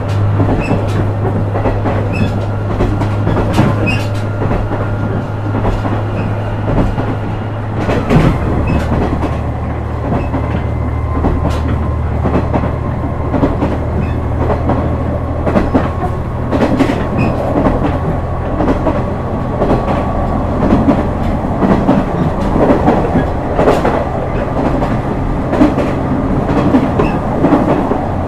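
KiHa 126 series diesel railcar running, heard inside the car: the underfloor diesel engine drones steadily while the wheels click rhythmically over rail joints. About eight seconds in, the engine note steps down in pitch.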